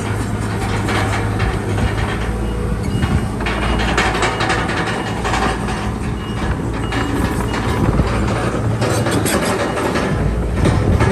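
Crawler bulldozer's diesel engine running steadily, with repeated metallic clanking and clatter from its steel tracks and blade working.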